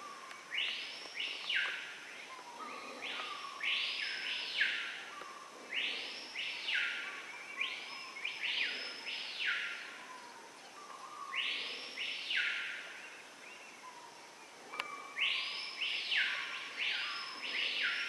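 Screaming pihas calling: loud whistles that sweep up and fall back down, repeated every second or two and sometimes overlapping, as if several birds are answering one another.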